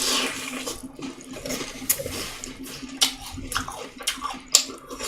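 Wet chewing sounds of a person eating, with irregular short clicks and squelches.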